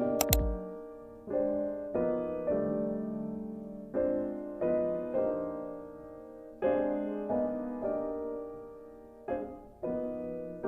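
Soft background piano music: chords struck every second or so and left to fade away. A couple of sharp clicks right at the start.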